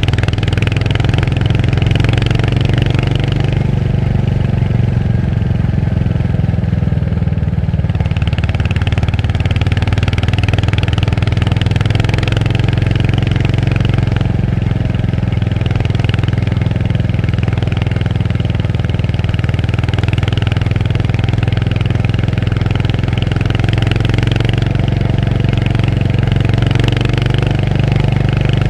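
Royal Enfield Hunter 350's single-cylinder engine running steadily while the bike is ridden. The higher, hissy part of the sound drops away from about four to eight seconds in, then returns.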